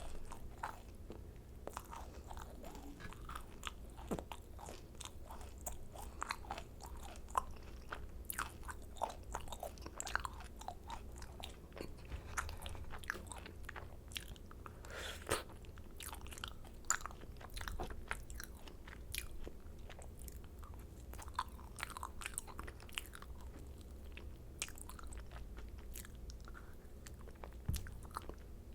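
Close-miked chewing and biting of macarons: irregular soft crunches and crackles of the meringue shells, with wet chewing in between, over a faint steady low hum.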